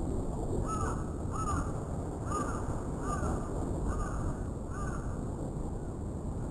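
A crow cawing six times in a row, short harsh calls less than a second apart, over steady low wind noise.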